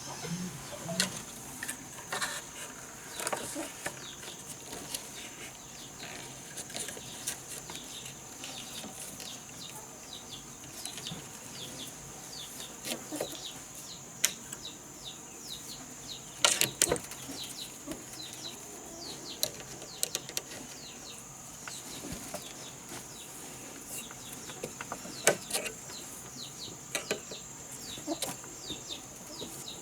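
Farmyard birds chirping with many short falling calls, over a steady high insect buzz, with scattered sharp knocks and taps, the loudest at about 17 s and 25 s.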